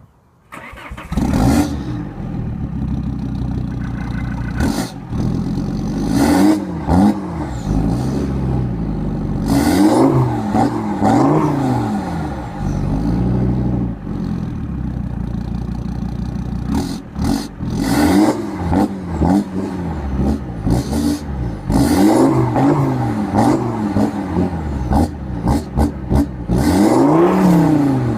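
Volvo C30 D5's five-cylinder turbodiesel, breathing through a full Milltek Sport turbo-back stainless exhaust, idling and being blipped and revved again and again, each rev rising and falling in pitch. The sound comes in abruptly about half a second in.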